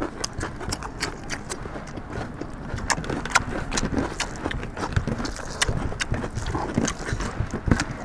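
Close-up eating sounds of chicken curry with rice: wet chewing and lip-smacking, with irregular sharp smacks and clicks several times a second.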